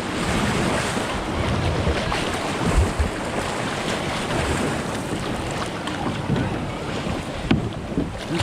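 Choppy sea waves breaking and washing in the surf, with heavy wind buffeting the microphone.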